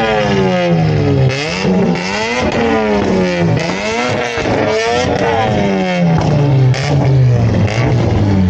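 A car engine being revved up and down again and again, its pitch falling and rising about once a second.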